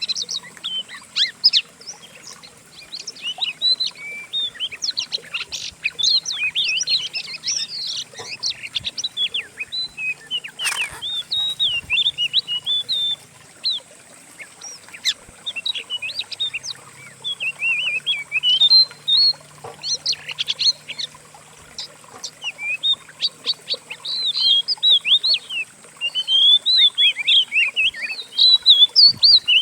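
Several songbirds' songs mixed together: rapid chirps, trills and short whistled phrases in quick bursts with brief pauses. A short click comes about eleven seconds in.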